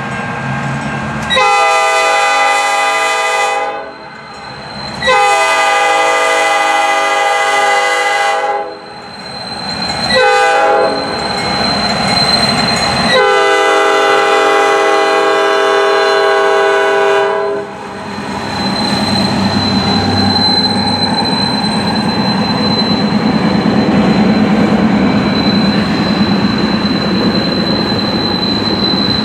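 A locomotive horn sounds the grade-crossing signal: long, long, short, long. The train then rolls past with a steady rumble of wheels on rail and a thin, high wheel squeal.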